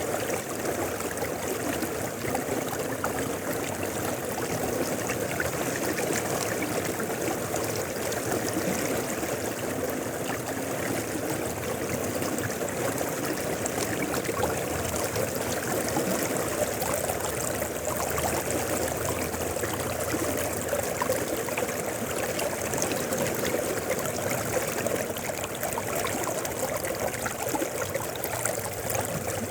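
Mountain river flowing, its water rushing in a steady, unbroken stream.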